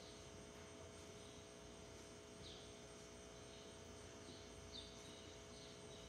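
Quiet outdoor background: a steady low hum with a few faint, short, falling bird chirps scattered through it.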